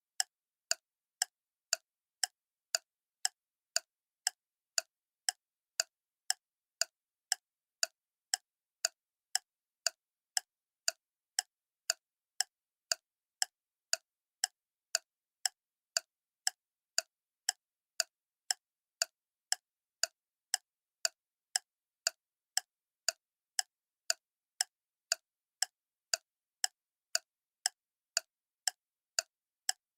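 Clock ticking steadily, about two sharp ticks a second, with silence between the ticks.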